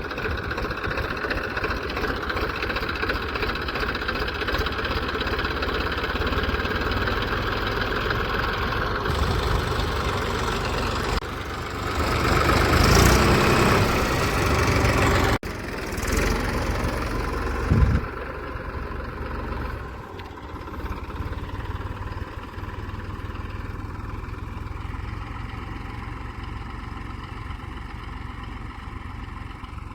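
Massey Ferguson 1035 DI tractor's diesel engine running steadily. It gets louder for a few seconds midway, then settles to a quieter running sound.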